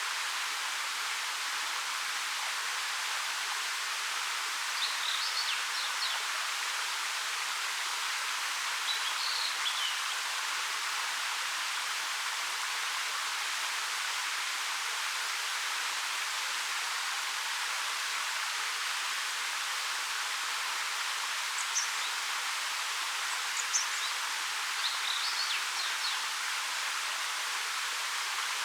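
Steady rushing of a 13 m waterfall falling over rock. A few short, high bird chirps stand out now and then.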